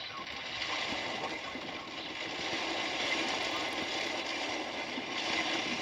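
Steady downpour of rain, an even hiss that swells slightly about three seconds in and again near the end.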